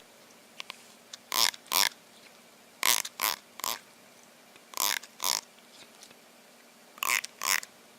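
An animal making short, noisy sounds in quick groups of two or three, nine in all, with pauses of a second or more between the groups.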